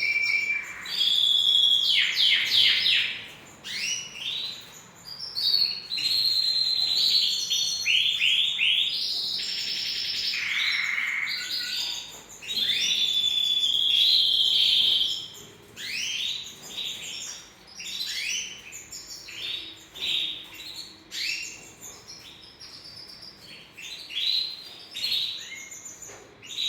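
Domestic canary singing a long song of fast repeated trills and sweeping notes, with a few held whistles, broken by short pauses. The song is louder in the first half and comes in softer, shorter phrases after about fifteen seconds.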